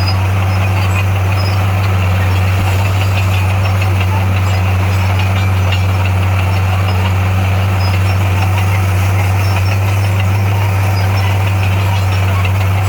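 Heavy-equipment diesel engine running at a constant speed: a loud, steady low drone that holds the same pitch throughout.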